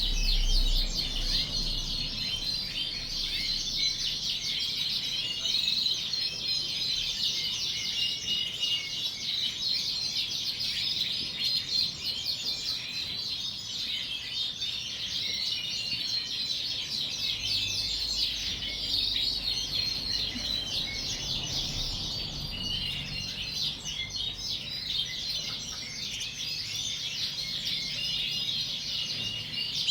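Many Yorkshire canaries chirping and singing at once, a dense, unbroken chatter of high calls.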